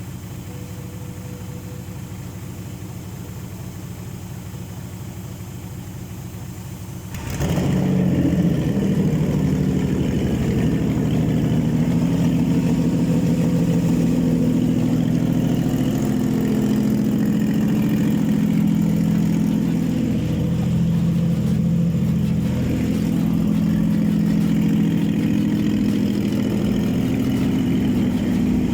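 Nissan VQ35 3.5-litre V6 engine on a test stand: a steady, quieter mechanical hum for about seven seconds, then the engine starts abruptly and runs loudly and steadily, with small rises and falls in speed. This is the engine's first start after it was fitted to the stand.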